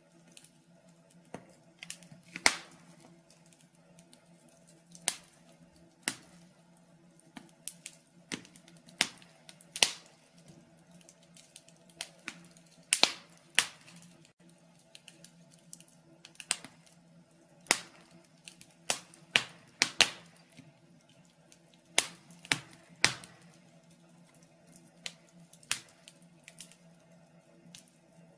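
Fire in a fireplace crackling, with irregular sharp pops, a few each second, some much louder than the rest, over a faint steady low hum.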